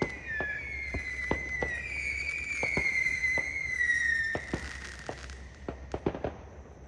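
Fireworks: several overlapping shrill whistles, each falling slightly in pitch, over scattered sharp pops and cracks. The whistles die away about four seconds in, leaving a few fainter pops.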